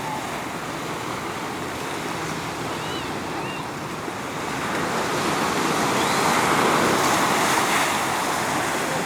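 Pacific surf washing onto the beach, a steady rushing noise that swells about halfway through as a wave breaks and eases again near the end.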